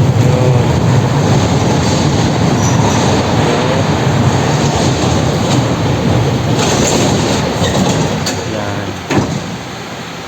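Roller coaster train running along its track on a test run after a wheel assembly repair: a loud, steady rumble of the wheels on the rail with brief faint squeals, dying away near the end, followed by one sharp knock.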